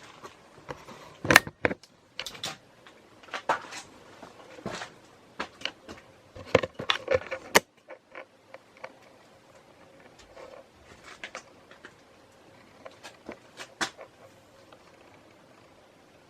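Irregular handling noise: clicks, knocks and rustling, busiest in the first half and thinning out to occasional ticks after about eight seconds.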